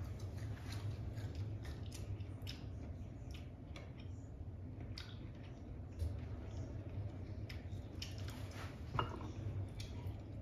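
A person chewing a mouthful of lime with its peel: scattered small crunches and mouth clicks over a steady low hum.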